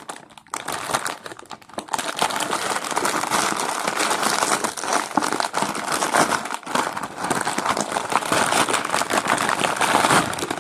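Snack packaging crinkling and crackling steadily as it is handled.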